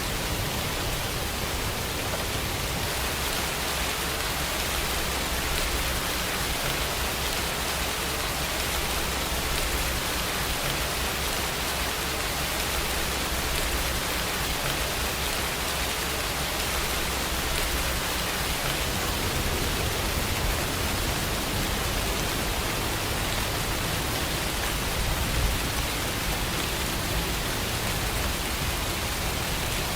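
Steady rain falling, a continuous even hiss with no pauses.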